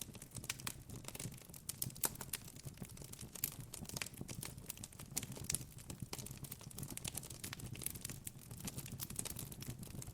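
Campfire crackling: a steady stream of irregular pops and snaps from burning wood over a low rumble of the flames.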